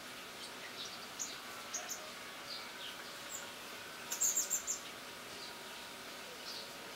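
Small birds chirping: short, high calls scattered over a faint steady background, with a quick run of sharp, louder chirps about four seconds in.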